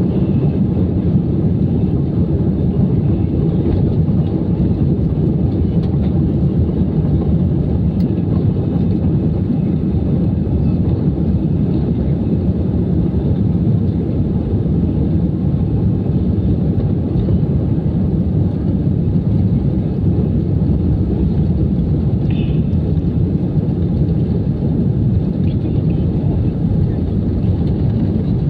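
Steady engine and airflow noise inside the cabin of an Airbus A320-214 airliner in flight, a constant low rumble with no change in power.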